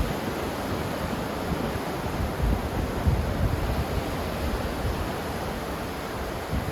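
Ocean surf washing steadily, a continuous rushing hiss with a few brief low rumbles of breaking waves.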